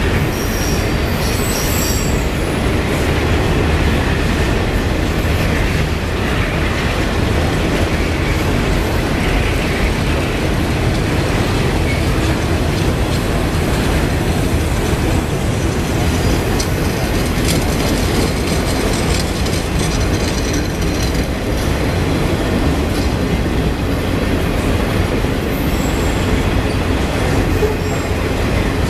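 Train cars rolling past on the rails: a steady rumble of wheels on track, with high wheel squeals now and then.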